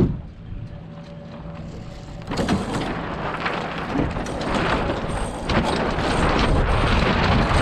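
Wind buffeting the microphone on a small sailboat, a gusty rushing that starts about two seconds in and grows louder.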